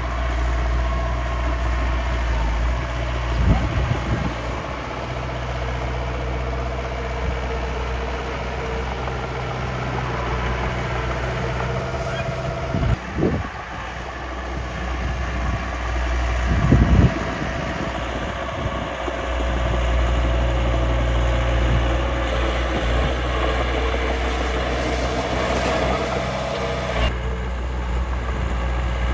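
Engine of miniature earthmoving machinery running steadily, its pitch and level shifting a little, with a few short knocks and clunks about 3, 13 and 17 seconds in.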